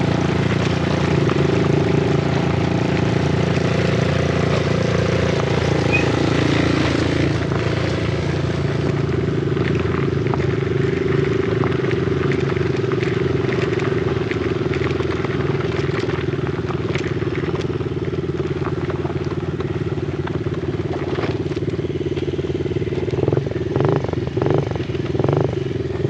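Yamaha TT-R50's small air-cooled four-stroke single-cylinder engine running while being ridden on a trail, at a fairly steady engine speed, with a few short louder spurts near the end.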